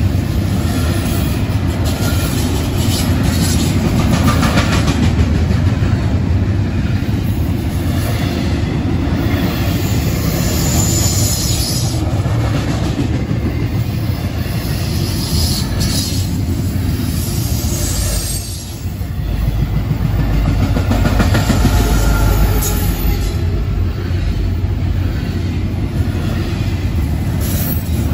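Double-stack intermodal freight train rolling past close by: a loud, steady rumble of steel wheels on rail, with high-pitched wheel squeal coming and going.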